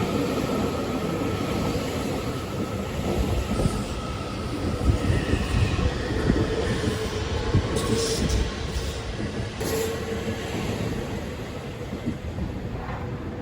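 Seibu 001 series Laview electric train running on the rails: a steady rumble with a few sharp knocks partway through, dying down near the end.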